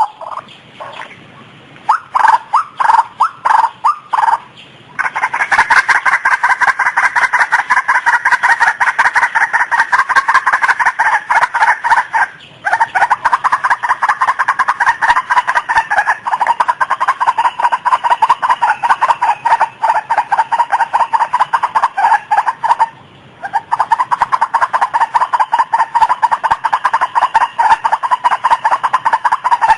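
White-breasted waterhen calling: a few separate notes, then from about five seconds in a fast, unbroken run of repeated calls that breaks off briefly twice.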